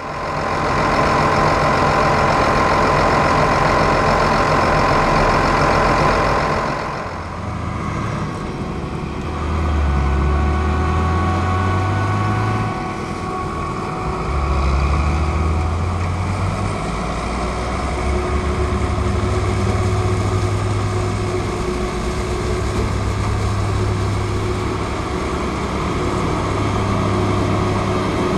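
Heavy diesel farm machinery at work: a Claas forage harvester and tractor running. For the first several seconds it is loud and steady with a high whine. Then the level drops a little and the engine note keeps shifting up and down in pitch.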